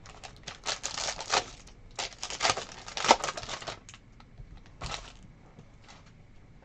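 Basketball trading cards being flipped and slid against one another in the hands: a quick run of clicking rustles for about four seconds, then a few scattered clicks.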